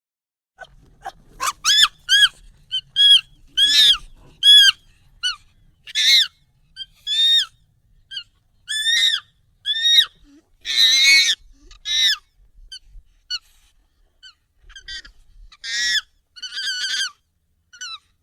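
Monkey calls played sped up and pitched up: a string of short, high, arching shrieks, roughly one or two a second, with one longer, rougher scream about halfway through.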